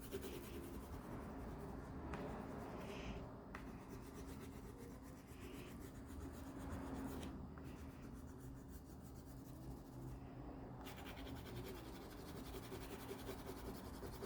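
Faint scratching and rubbing of a red crayon on paper as the outline of a drawing is gone over and darkened.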